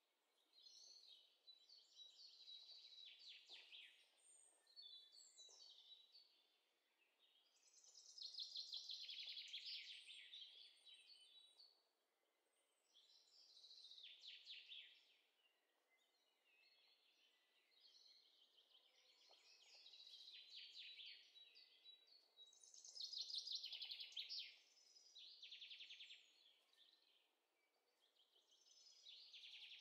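Faint birdsong: trilling phrases of two to three seconds, repeated every few seconds, with a few thin high chirps between them.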